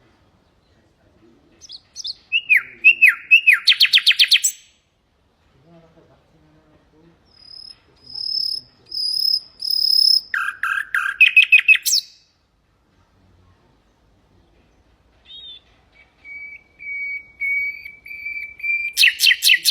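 Nightingale singing in separate phrases with pauses between them: quick falling notes running into a fast trill, then four long pure whistles, a burst of rapid notes, and a string of even notes that ends in a loud trill.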